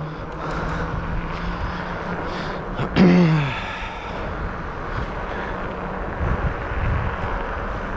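Wind and road noise on the microphone of an Ecotric fat-tire e-bike while riding, with a steady low hum in the first two seconds. About three seconds in, a short, loud sound drops quickly in pitch and is the loudest thing heard.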